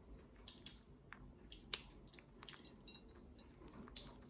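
Green-cheeked conure's beak nibbling and crunching a piece of walnut: sharp, irregular clicks and cracks, several in a few seconds.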